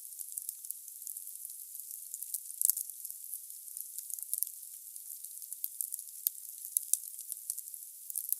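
Wood burning in a fireplace, crackling logs with a soft steady hiss and frequent sharp irregular pops, a louder cluster of pops about two and a half seconds in.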